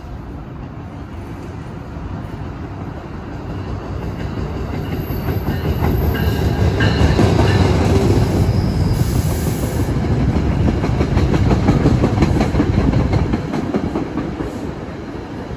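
NJ Transit commuter train rolling past, its wheels clicking rhythmically over the rail joints over a deep rumble. It grows louder for the first several seconds and eases off near the end.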